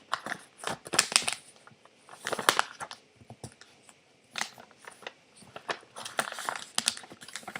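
A sheet of paper being folded in half lengthwise and creased by hand: irregular spells of crinkling, rustling and sharp crackles, with short quiet gaps between them.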